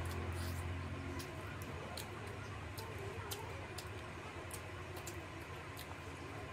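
Close-miked wet chewing and lip smacks while eating rice and curry: irregular sharp clicks, a few a second, over a low steady hum.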